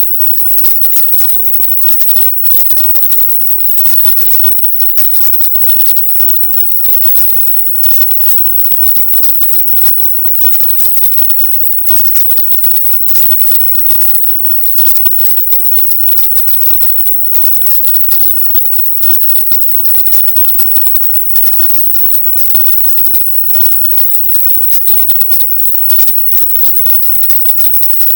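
Loud, steady hiss-like noise, strongest in the treble, broken by many very short dropouts: a 'silent subliminal' track, in which spoken affirmations are shifted up in pitch so that they are heard only as a high hiss.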